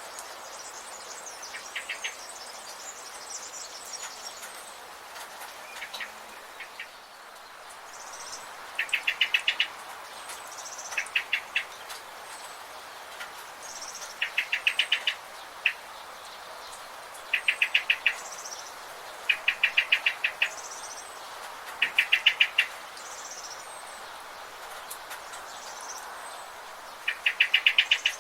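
Forest birds calling: one repeats a short, rapid stuttering trill of several notes every two to three seconds, loudest of all, while thinner high chirps come in between, over a steady background hiss.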